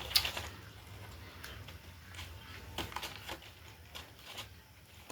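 Scattered light clicks and knocks, the sharpest one just after the start, over a low steady hum.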